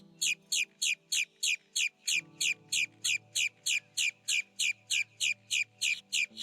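A bird calling in a fast, even series of high notes that each fall sharply in pitch, about three a second, over soft background music with held chords.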